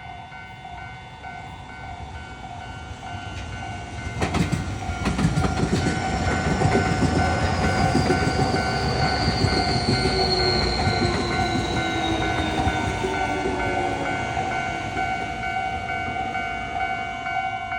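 Japanese level-crossing alarm ringing in a steady repeating pattern as an electric train pulls in. Its wheels clack over rail joints from about four seconds in, and its motor whine falls in pitch as it brakes.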